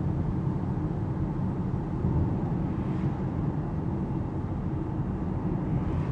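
Alpine A390 electric car driving: steady low tyre and road rumble heard from inside the cabin.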